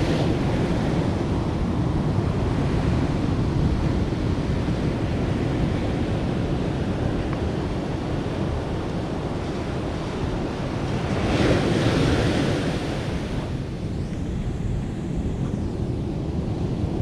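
Sea waves breaking and washing up a beach in a steady roar of surf, with wind buffeting the microphone. One wave swells louder about eleven seconds in.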